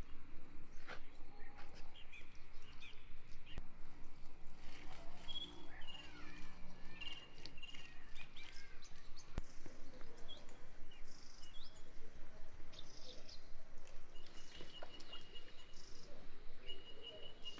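Small birds chirping on and off, with scattered light clicks and knocks over a steady background.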